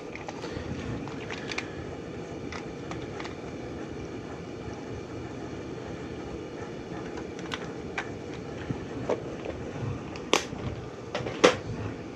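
Furnace blower fan running steadily, with a few sharp clicks and knocks near the end.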